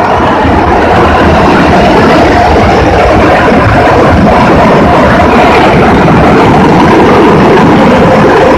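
Automatic car wash machinery running loudly and steadily.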